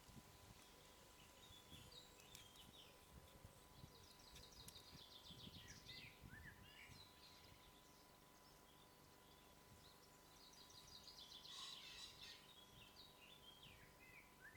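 Faint woodland birdsong: a few bursts of quick, trilled high notes and short chirps from small birds, with a faint steady tone underneath.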